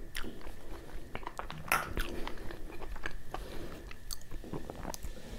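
Close-miked chewing of a piece of puri soaked in mutton curry: irregular wet mouth clicks and smacks.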